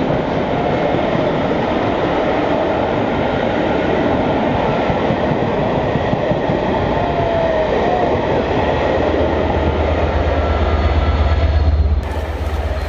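A passenger train's coaches rolling past close by, with a steady rumble and clatter of wheels on rails. A low drone builds in the last few seconds.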